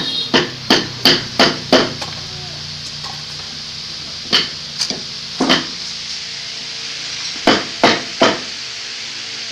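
Hammer blows on wood: a quick run of five strikes about a third of a second apart, then a few scattered strikes, and a group of three near the end.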